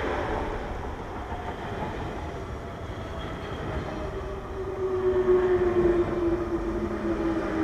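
Electric commuter trains running on adjacent tracks: a double-deck suburban train rolling past close by as a Z 5300 electric multiple unit pulls away. A steady motor whine sinks slightly in pitch, and the rumble swells about five seconds in.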